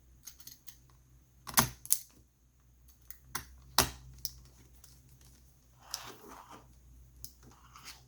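Small sharp clicks and taps of a screwdriver and small parts against a laptop's plastic and metal chassis during reassembly. The loudest clicks come in two pairs, about a second and a half in and about four seconds in, with a soft rustle of handling near the end.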